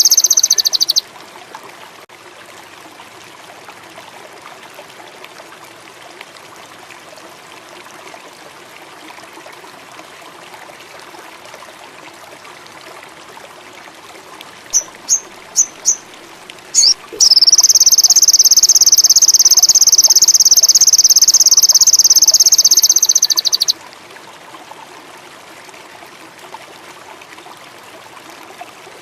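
Sogon bird song for a lure recording: very high, fast buzzing trills, one ending about a second in and a long one lasting about six seconds, with four short chirps and two quick bursts just before it. A steady background of trickling stream water runs under them.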